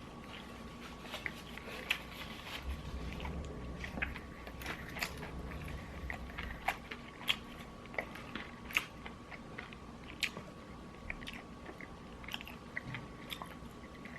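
Close-up chewing and biting of crispy fried chicken, with irregular crunches of the batter scattered throughout.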